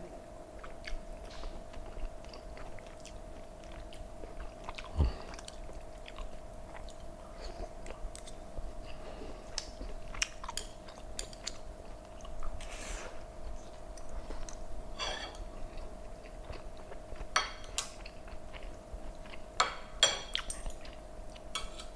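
Close-up chewing and mouth sounds of a man eating soft braised pork belly, with scattered small wet clicks over a faint steady hum. Near the end a few sharper clinks of a metal spoon against a ceramic serving bowl.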